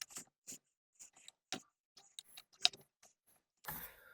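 Faint, scattered small clicks and ticks, one a little louder late on, as a rubber fuel-line grommet is slowly pressed into a small plastic fuel tank.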